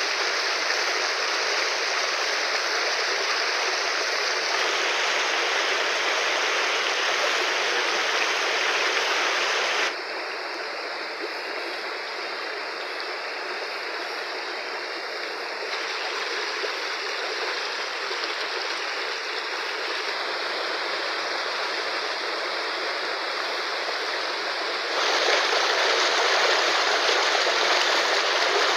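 Fast-flowing river rushing, a steady dense hiss of water that abruptly steps quieter or louder several times: down about ten seconds in, up again near the end.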